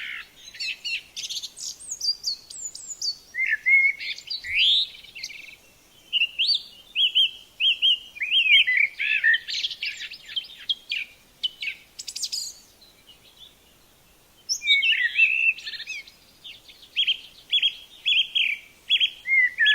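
Songbird singing: phrases of quick chirps, trills and sweeping whistles, each a few seconds long with short pauses between, and a longer pause about two-thirds of the way through.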